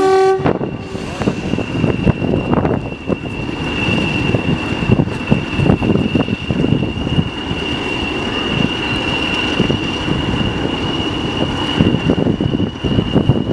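English Electric Class 40 diesel locomotive 40106 pulling away under power, its engine throbbing with the steady high turbocharger whistle that the class is known for. The tail of a horn blast cuts off in the first half second.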